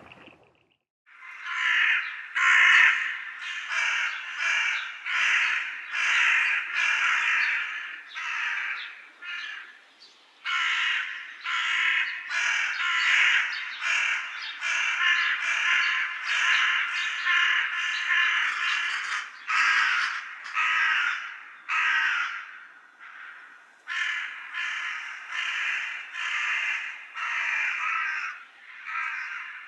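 Birds calling in a long run of short repeated calls, about two a second, with brief pauses about a third of the way in and again near the end.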